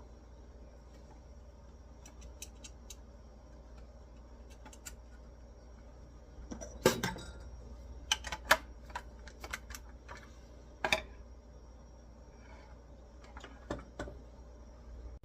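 Small metal parts and a hand tool clicking and clattering while bolts go onto the espresso machine's frame: scattered light clicks, with the loudest clatter about seven seconds in and a few more clanks after it and near the end.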